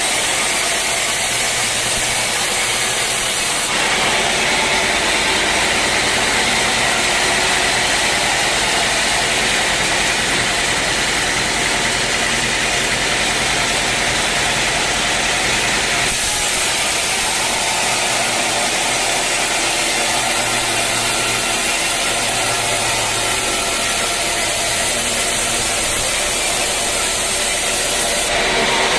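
Band sawmill running with a steady, loud mechanical noise from motor and blade. The sound shifts abruptly about four seconds in and again about sixteen seconds in.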